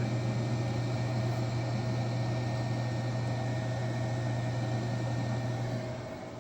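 Steady low machine hum, with fainter steady higher tones above it; it dips briefly near the end.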